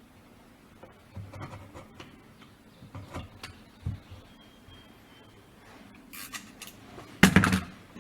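Scattered clicks, scrapes and rubbing from hand tools and the plastic parts of a chainsaw's recoil starter being worked apart, with a louder clatter about seven seconds in.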